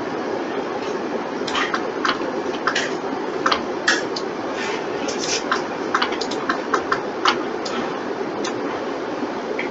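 Computer mouse and keyboard clicks, short and irregular, coming in quick runs around the middle, over a steady background hiss.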